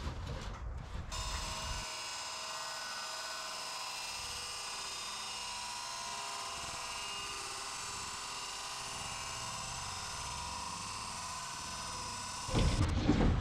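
A steady, high-pitched electric buzz that holds an even level, starting about a second in and cutting off near the end.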